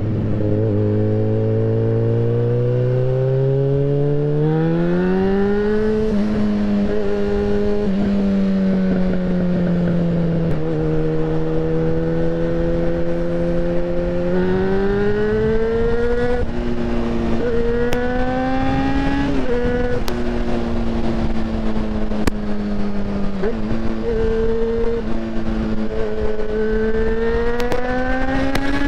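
Yamaha XJ6N's 600cc inline-four engine under way. Its note climbs steadily over the first six seconds, holds and eases off, then jumps several times in the second half as the gears change, and rises again near the end, with wind noise underneath.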